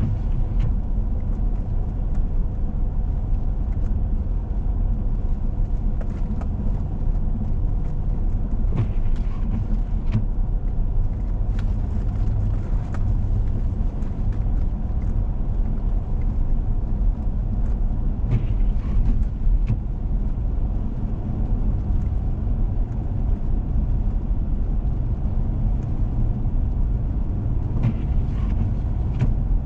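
A four-wheel-drive vehicle driving on a snowy road: a steady low rumble of engine and tyre noise, with a few faint clicks scattered through it.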